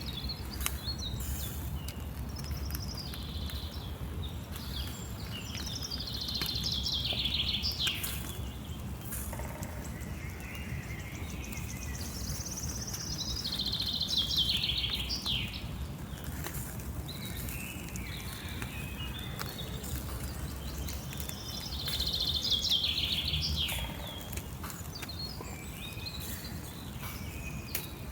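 A songbird singing outdoors: the same high, falling trilled phrase, lasting two to three seconds, comes three times about eight seconds apart, with softer chips between. A steady low rumble lies underneath.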